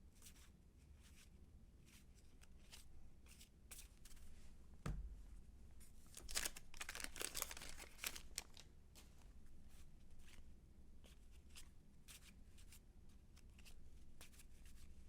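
Faint handling of 1990 Fleer cardboard baseball cards being flipped through by hand: light clicks and slides of card on card, with a low thump about five seconds in and a longer rustle a second later.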